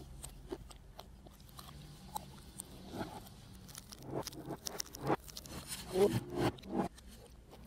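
Someone biting into and chewing a McDonald's apple pie with its crisp pastry crust. It is quiet at first, then a run of short crunches and mouth smacks grows busier from about three seconds in.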